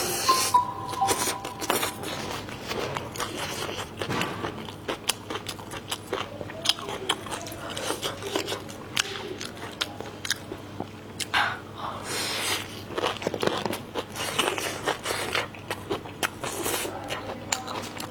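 Close-miked eating: crunchy bites and wet chewing, with many quick mouth clicks and smacks.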